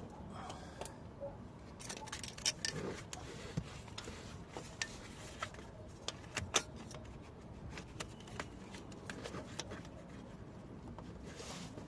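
Hand tools and metal parts clinking and tapping in irregular, scattered clicks, the loudest about two and a half and six and a half seconds in, during work on the starter motor.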